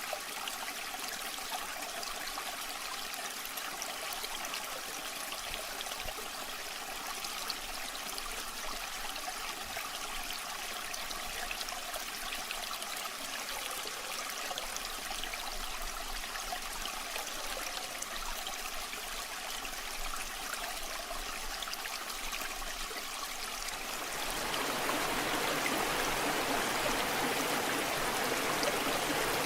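Waterfall water rushing and splashing steadily. Near the end it grows louder and fuller.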